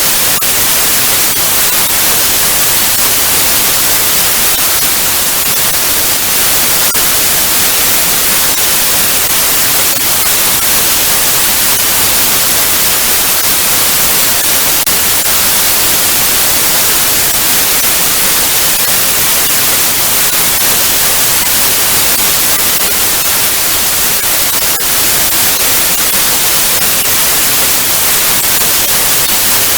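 Television static: a loud, steady hiss of white noise, brightest in the treble, with a faint tick or two.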